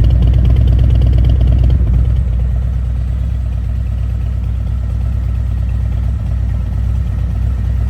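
Harley-Davidson Road King's V-twin engine idling through Vance & Hines Hi-Output slip-on mufflers, with a pulsing, lumpy beat. About two seconds in it drops to a quieter, steadier low rumble.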